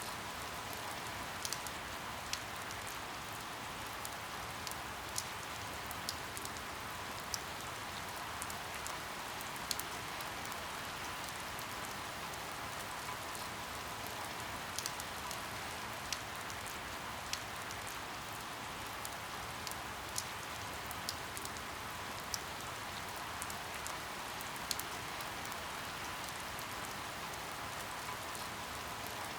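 Steady rain: an even hiss of falling rain with irregular sharp drip ticks, about one a second.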